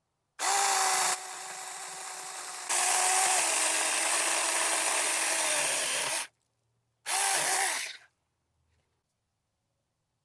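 Saker mini cordless electric chainsaw cutting through a hardwood crape myrtle branch, its electric motor whining with the chain rasping through the wood. It runs for about six seconds, quieter for a stretch early on, stops, then gives a second short burst whose pitch dips before it winds down. The cut goes through easily.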